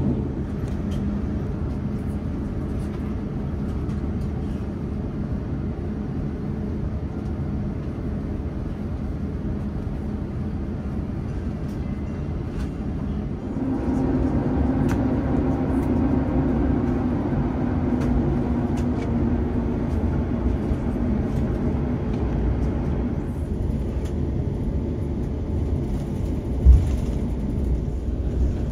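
Airbus A350-900 cabin noise on the ground: a steady low rumble with a few hum tones. About 13.5 s in it gets louder and fuller as the jet taxis, with a single thump near the end.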